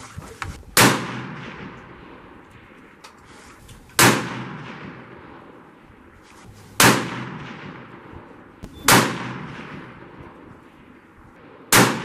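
Five rifle shots on a long-range firing line, spaced about two to three seconds apart, each a sharp crack followed by a fading echo.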